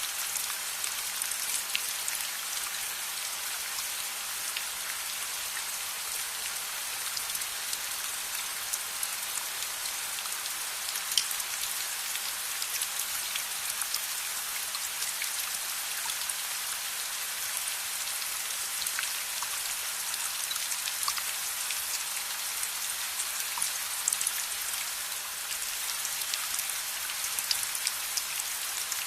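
Steady rain, an even hiss with many scattered sharp clicks of drops or crackles.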